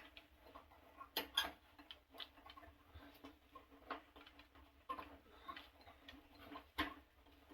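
Scattered light clicks and taps of a replacement electric water heater thermostat and its metal clips being handled and fitted into the clip holders on the tank, with louder clicks about a second in and near seven seconds.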